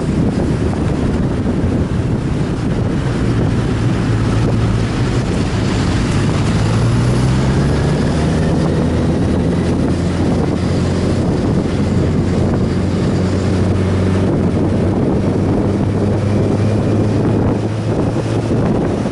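Sport motorcycle engine running under way, its pitch climbing for a few seconds and then holding, with heavy wind noise on the microphone.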